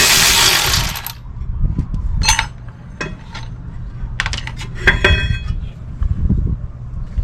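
A power tool's loud whirring cuts off about a second in, followed by scattered metallic clinks and clanks with a brief ring, as steel tools and brake parts are handled and set down.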